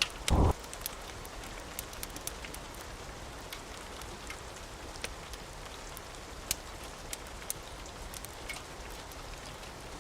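Steady rain falling, with scattered sharp ticks and crackles throughout and one short, low thump about a third of a second in, the loudest moment.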